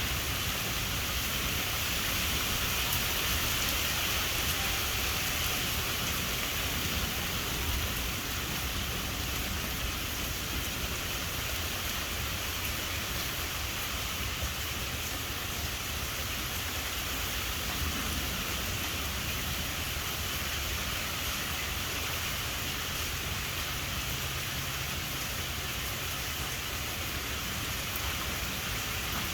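Steady rain falling during a thunderstorm, an even hiss with a low rumble underneath.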